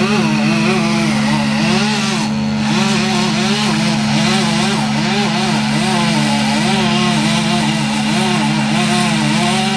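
A chainsaw runs in a repeated rising-and-falling pitch, about twice a second, as it cuts into the tree. Under it, a heavy engine on the tree-service equipment drones steadily.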